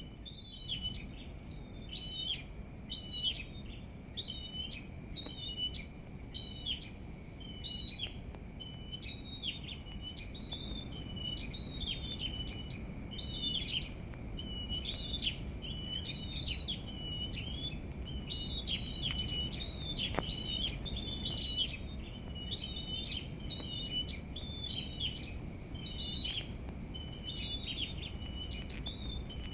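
Small songbirds singing: short chirping phrases repeated one after another without pause, over a low steady background rumble.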